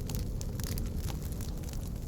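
Wood campfire burning: a steady low rush of flame with scattered sharp crackles and pops.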